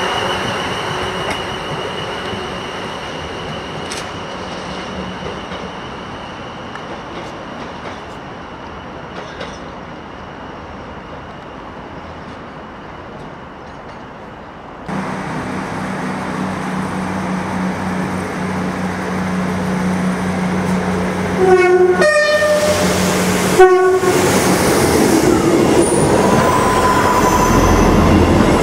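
South Western Railway electric multiple unit trains: the first runs past and fades away. After a sudden change in the middle, a second unit approaches with a steady hum, sounds its two-tone horn twice in quick succession about three quarters of the way in, then rumbles past close by.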